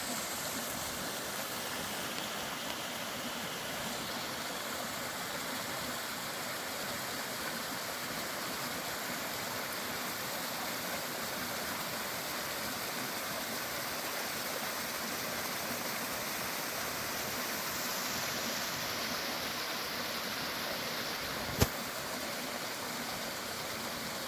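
Small roadside waterfall and creek water rushing, a steady even splashing hiss. One sharp click near the end.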